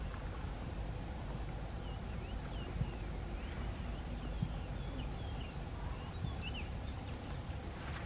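Birds calling in short, quick high chirps that slide up or down, over a steady low rumble, with a few soft knocks.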